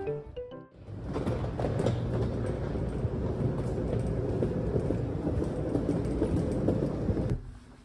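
Train running: a steady rumble with faint clattering of the wheels, cutting off abruptly near the end.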